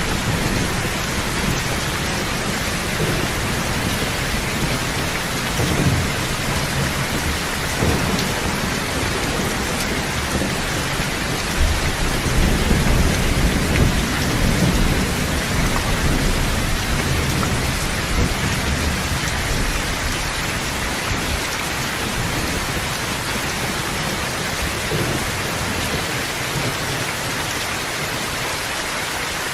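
Steady heavy rain falling, with low rolling thunder that swells about halfway through and a few brief low rumbles earlier.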